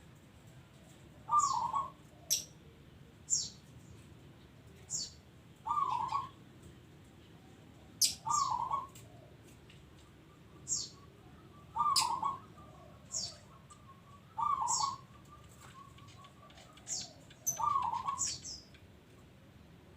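Zebra dove (perkutut) cooing its song, six short phrases a few seconds apart, with sharp high chirps from other small birds in between.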